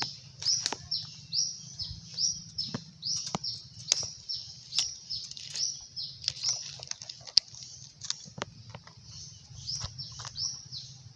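A bird calling over and over, a high chirp that slides downward, about two a second. Scattered short clicks and snaps of dry twigs and brush are handled close by.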